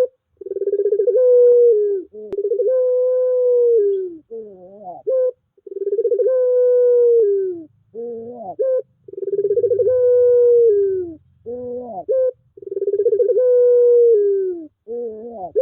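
Puter pelung turtle dove cooing repeatedly, a lure call for getting a dove that has gone quiet to start calling. A short rising note is followed by a long, rolling coo that falls at its end, the pair repeating about every three and a half seconds, five long coos in all.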